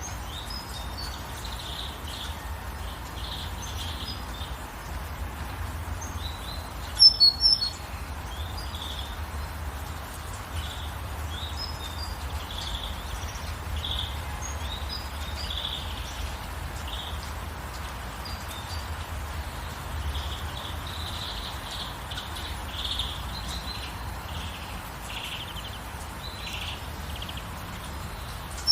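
Birds chirping over a steady hiss of rain, with short calls scattered throughout and a louder burst of quick, high notes about seven seconds in.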